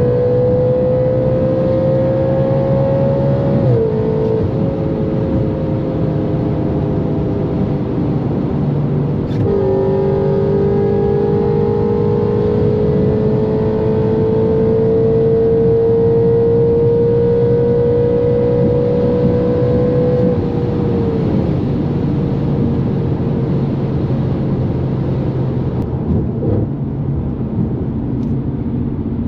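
Straight-piped Audi RS5's naturally aspirated V8 pulling hard in a high gear, its note climbing slowly. It steps down about 4 s in and again with an upshift about 9 s in, climbs for about ten seconds, then falls away after about 20 s as the throttle closes.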